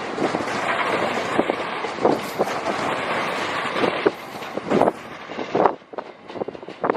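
Train running past, a steady rumble that fades away after about four seconds, with wind gusting on the microphone near the end.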